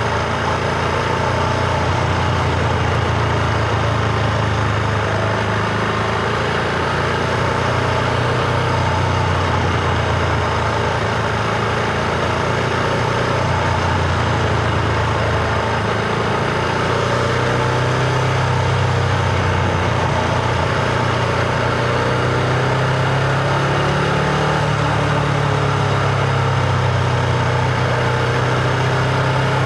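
Husqvarna Vitpilen 701's single-cylinder engine running under way on a ride, its note shifting gently with the throttle and rising for a while in the second half, over a steady hiss.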